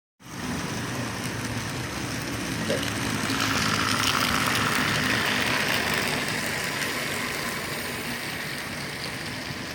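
Model train running along its track, a steady mechanical running noise that grows louder over the first few seconds and then slowly fades as the train passes and moves away.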